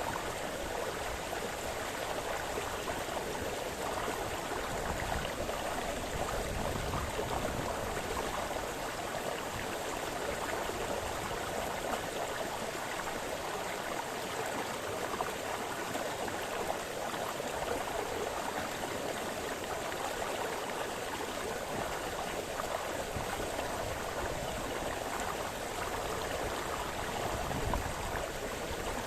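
A small brook splashing and burbling over stones, a steady running-water sound with no letup.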